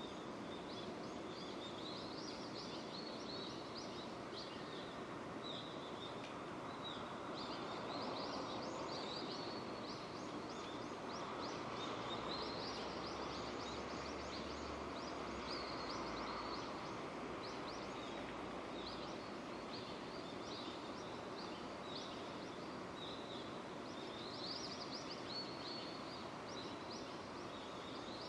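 Steady rain falling in a continuous even hiss, with birds chirping over it again and again. A faint low rumble comes in around the middle and fades.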